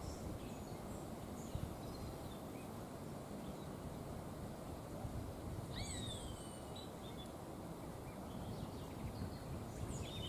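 Steady rush of wind through forest trees, with scattered bird calls over it: a clear call of sliding high notes about six seconds in, and a few short chirps near the start and the end.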